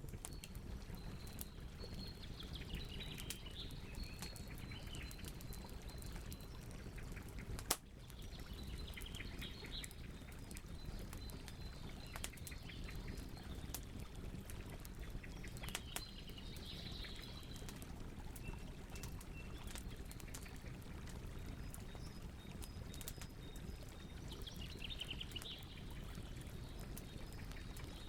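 Campfire burning with a low steady rush and frequent small crackles and pops, one sharp pop about eight seconds in. Birds chirp in short bursts every several seconds over it.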